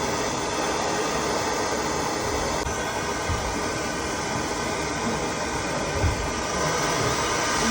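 Handheld gas soldering torch burning with a steady, even hiss while heating 3/4-inch copper pipe for soldering.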